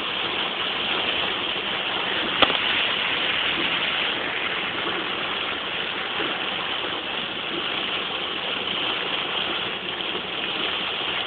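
Steady noise of heavy rain on a moving vehicle, mixed with tyres running through water on a flooded road. One sharp click about two and a half seconds in.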